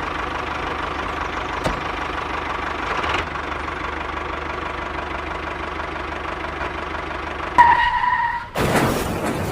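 Tractor engine running steadily with a low rumble. Near the end a short beep-like tone sounds, followed by a brief loud burst of noise.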